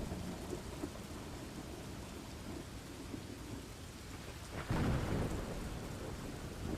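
Thunderstorm: steady rain falling, with a rumble of thunder that breaks in suddenly about two-thirds of the way through and fades over a second or so.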